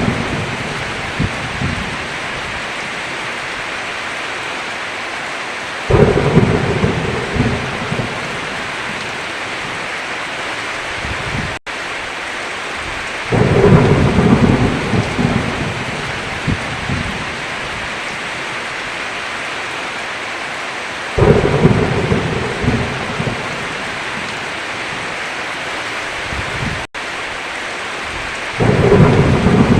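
Heavy rain falling steadily on a roof, with four rolls of thunder rumbling in about every seven to eight seconds, each lasting a few seconds. The sound cuts out for an instant twice.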